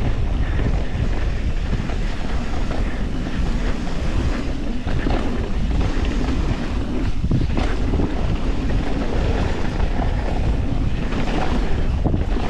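Steady wind buffeting the action camera's microphone as a mountain bike descends a downhill trail, with the rumble of tyres on wet dirt and the bike rattling beneath it.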